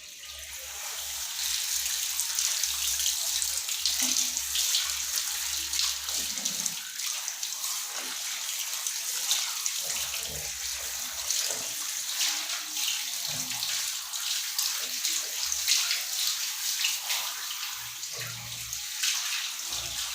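Running water splashing steadily as a dog is washed in its bath.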